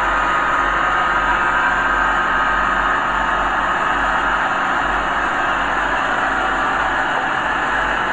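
Diesel engine of earthmoving machinery running steadily at a constant pitch.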